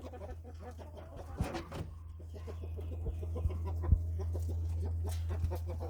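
Chickens clucking in short scattered calls over a low steady hum, with a sharp thump about four seconds in.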